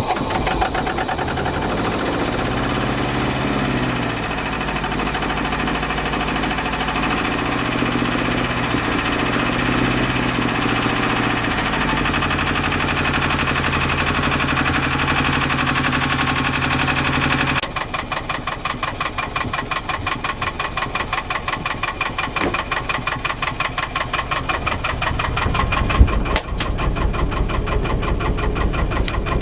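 Albin 2D boat engine running, its pitch rising and falling twice early on. About two-thirds of the way through the sound changes abruptly to a distinct pulsing beat of separate strokes, with a single sharp knock near the end.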